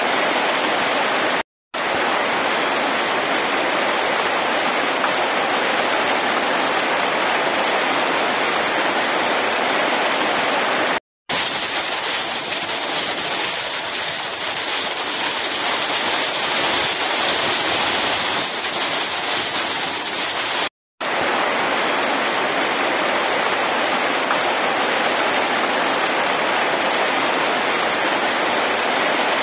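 Heavy rain pouring steadily on pavement and leaves: a dense, even hiss of downpour. The sound drops out briefly three times.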